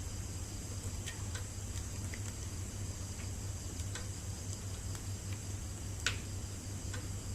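Wood fire crackling: scattered sharp pops, one louder pop about six seconds in.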